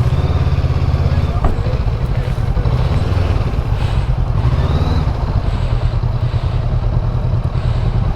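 Motorcycle engine running steadily at low revs, with a low, even pulsing, with faint voices in the background.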